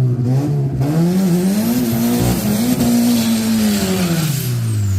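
Drag-racing car's engine under hard acceleration, its pitch climbing with small steps through the first half and then falling away steadily over the last two seconds.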